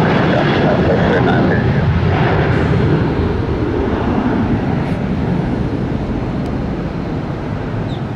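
Aircraft engines at takeoff power, a loud steady roar that slowly fades as the aircraft departs.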